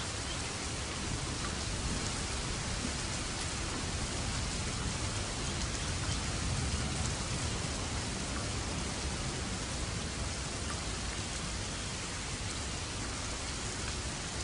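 Steady heavy rain, a dense even hiss of drops on surfaces, with a low rumble of distant thunder swelling about halfway through.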